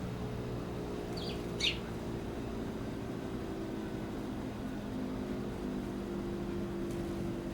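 A small bird gives one short, sharp chirp of two quick notes about a second and a half in, over a steady low mechanical hum.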